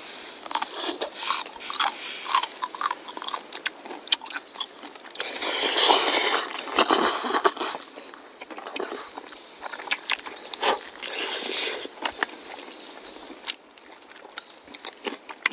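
Utensils clicking and scraping in a pot of freshly cooked black-bean noodles, mixed with eating noises; a louder stretch of scraping and slurping comes about halfway through.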